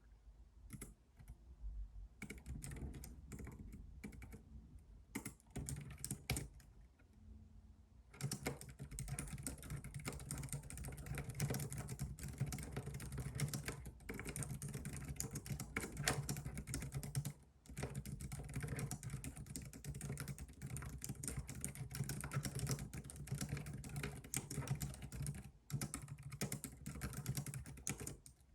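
Computer keyboard typing: a few scattered keystrokes at first, then fast continuous typing from about eight seconds in, broken by brief pauses.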